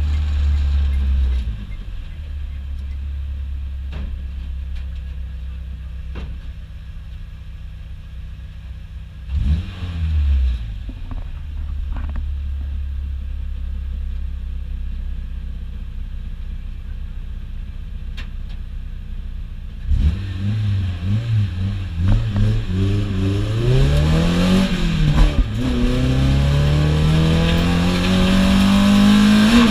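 Car engine heard from inside the cabin, idling steadily with one short rev about a third of the way in. Near two-thirds through the car pulls away hard, the engine rising in pitch through several quick gear changes and then climbing in one long pull near the end.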